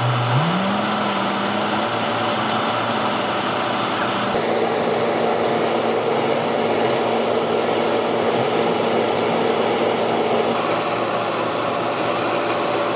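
An excavator's engine speeds up over the first second, then runs steadily at a constant pitch. About four seconds in, a rougher mid-range noise grows louder on top of it for several seconds.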